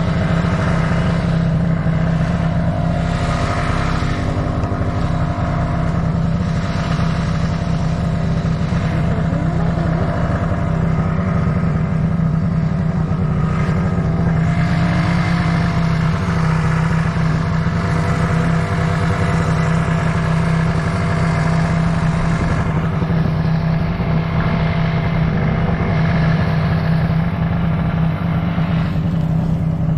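Snowmobile engine running steadily as the sled travels along the trail, a constant low drone with no big changes in speed.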